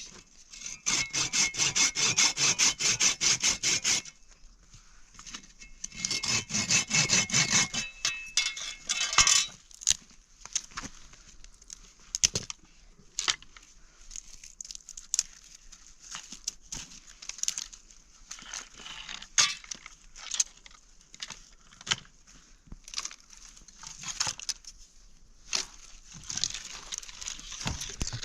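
Firewood being sawn by hand in two quick bouts of fast, even rasping strokes, the first about three and a half seconds long and the second about three. Scattered knocks of wood pieces follow.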